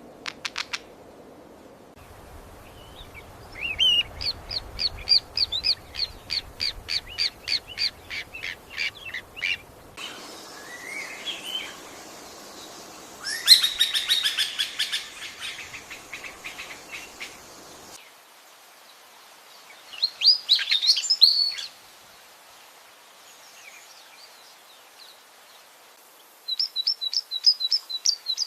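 Birds calling in a series of separate bouts: a long run of quick, repeated high notes at about three or four a second, then a loud, dense flurry of calls, a shorter burst later, and another quick trill of repeated notes starting near the end.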